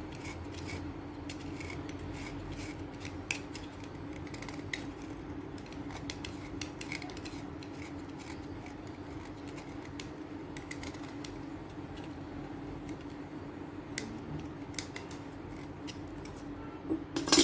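Stick of chalk being cut and scraped down into powder: a steady scraping with many small crunchy clicks, then a few louder sharp clicks near the end.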